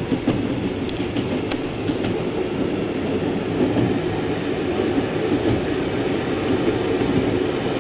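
Passenger train running, a steady rumble heard from inside the carriage.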